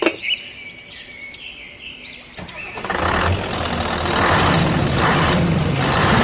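A few bird chirps at the start, then about two and a half seconds in a truck engine starts and keeps running with a low rumble and a hiss that swells roughly once a second.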